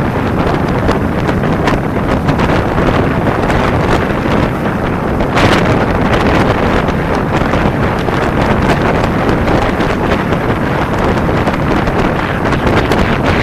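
Loud, steady wind buffeting on the microphone of a camera riding along on a moving motorcycle, with a stronger gust about five seconds in.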